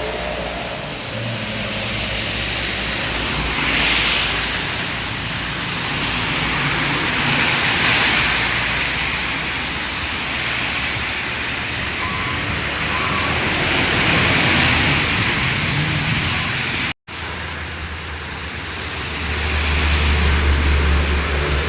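Road traffic passing on a rain-wet road. Tyre hiss swells and fades several times as vehicles go by, over a low engine drone that grows heavier near the end. The sound cuts out for an instant about two-thirds of the way through.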